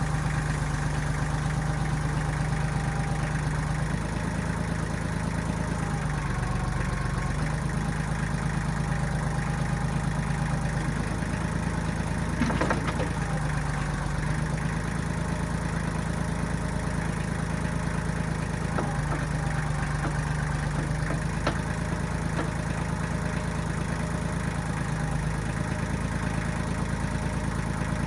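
The diesel engine of a 1995 Kubota backhoe running steadily at a constant speed, with slight dips now and then. A few brief knocks sound over it, the clearest about halfway through.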